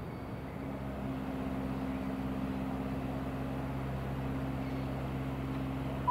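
A train at the station giving a steady low hum that holds unchanged.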